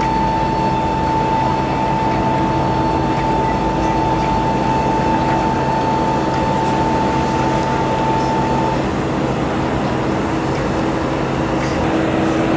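Aircraft engine running steadily, a continuous loud noise with a high whine that stops about nine seconds in, and a lower hum held throughout.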